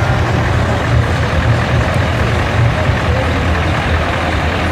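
Heavy truck engines running steadily with a deep low rumble.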